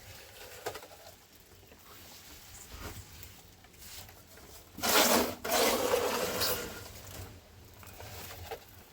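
Rasping strokes against wood: two loud scraping strokes about five seconds in, the second longer, after a stretch of faint rustling.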